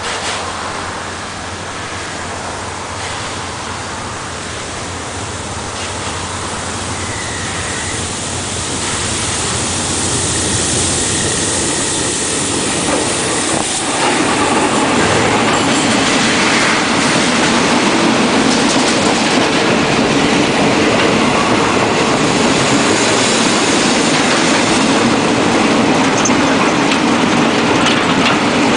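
GE UM-12C diesel-electric locomotive approaching and passing close by, growing steadily louder and reaching full loudness suddenly about halfway through as it goes past. The train then rolls by with its wheels clacking over the rail joints.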